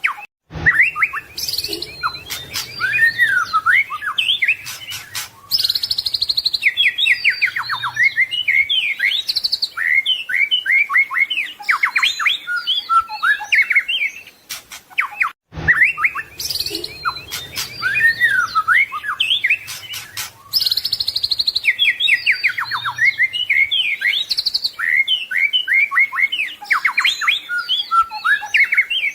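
White-rumped shama (murai batu) singing a dense, varied song of rapid whistles, trills and chattering phrases, the full mimicry-packed song (full isian) used as a training recording. The same passage of about fifteen seconds plays twice: a looped recording.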